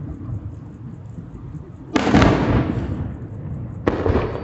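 Aerial fireworks shells bursting: two sudden booms, the louder about two seconds in and the second near the end, each trailing off in a rolling rumble, with a low rumble of echoes in between.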